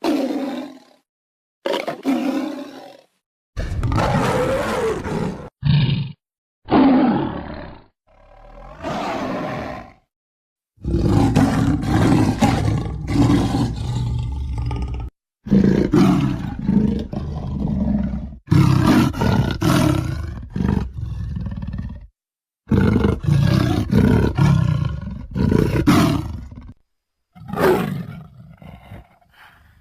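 Big-cat roars made from mixed lion and tiger recordings, used as the voice of a Homotherium (scimitar-toothed cat). The roars come one after another, short calls with brief silences between them at first, then longer runs of several seconds each.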